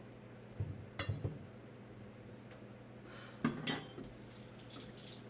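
Kitchen utensils knocking and clinking: a measuring cup against a mixing bowl as a cup of powdered sugar goes in. A few dull knocks with a sharp click come about a second in, and a louder clatter of clicks near the middle.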